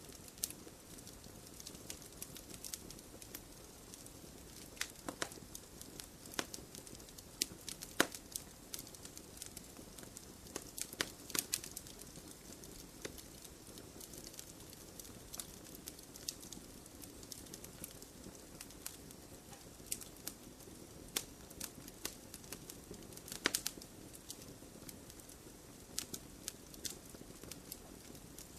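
Wood campfire burning in a stone fire pit, with irregular sharp crackles and pops over a steady low rush of flame; the loudest pops come about eight seconds in and again near twenty-three seconds.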